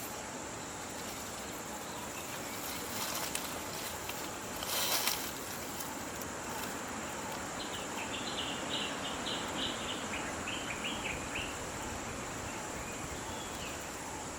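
Forest ambience with a steady high insect drone over a constant rushing haze. A brief noisy burst comes about five seconds in. Later a bird calls a fast run of short chirps for a few seconds, falling slightly in pitch.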